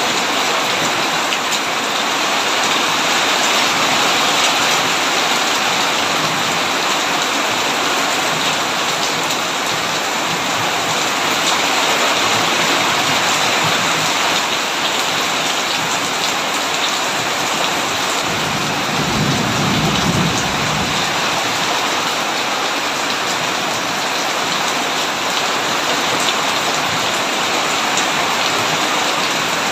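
Heavy rain pouring steadily onto a tin roof, with a short low rumble of thunder about two-thirds of the way through.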